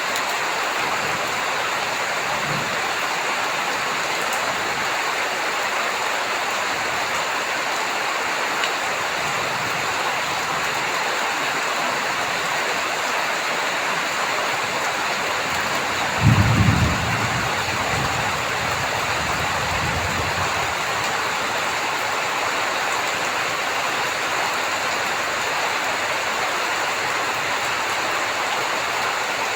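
Steady heavy rain falling. A little past halfway, a low roll of thunder rumbles for a few seconds; it is loudest as it starts, then fades.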